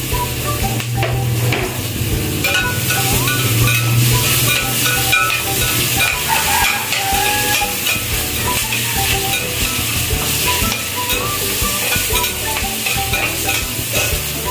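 Garlic and onion sizzling in hot oil in a glass pot on a gas stove, stirred steadily with a spatula.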